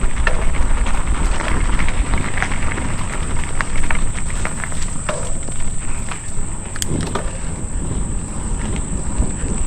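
Mountain bike ridden along a dirt trail: a steady low rumble with scattered clicks and rattles, over a constant high-pitched insect drone.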